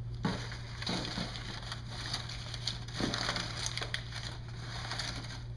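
Rustling, crackling and light knocks of plastic packaging and parts being handled, over a steady low hum.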